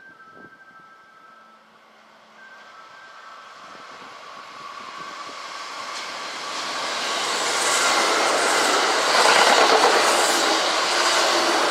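Kintetsu electric train coming into the station, its running noise building steadily over about eight seconds until it is loud and close, then running on loud.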